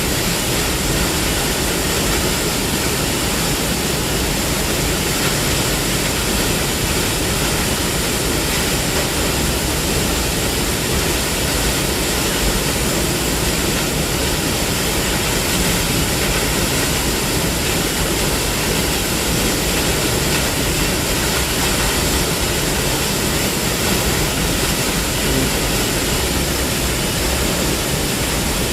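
Waterfall's steady, unbroken roar of falling water.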